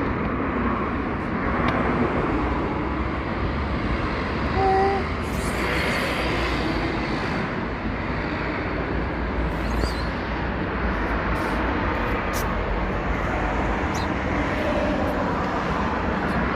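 Steady street traffic noise, with a brief tone about four and a half seconds in.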